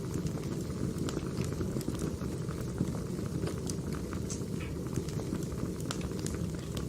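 Firewood burning: a steady low rumble of flames with frequent, irregular sharp crackles and snaps, several a second.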